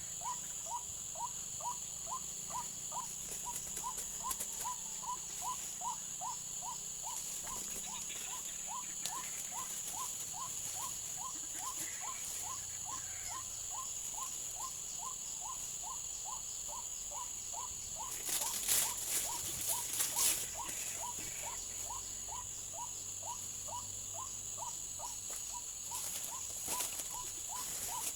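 White-breasted waterhen call: short, falling notes repeated steadily about twice a second, over a constant high-pitched hum. About two-thirds of the way through, a brief bout of crackling rustles is the loudest sound.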